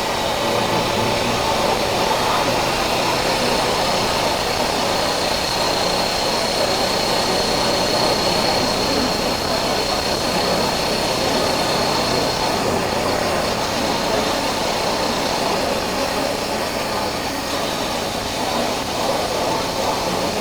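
Honda CB400X's parallel-twin engine running at a steady pace under way, under steady wind and road noise at a chest-mounted camera. A faint thin high whine sits over it through the first half.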